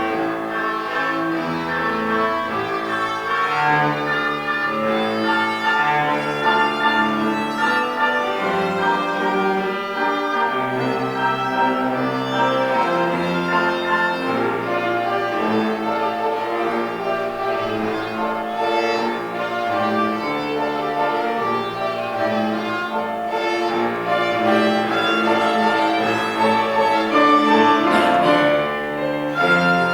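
Live violin and cello playing a waltz together, with sustained bowed notes over a steady accompaniment.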